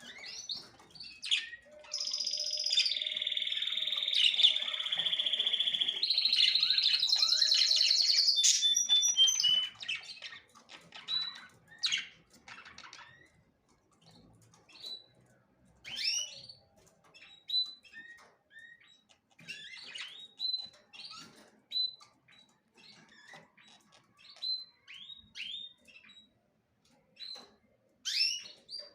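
Small songbirds chirping. One bird sings a long, loud, rapid warbling song for about seven seconds near the start, followed by scattered short chirps.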